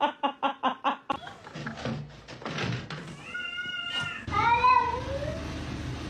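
A cat meowing twice: a high, thin call about three seconds in, then a longer meow that rises and falls about a second later.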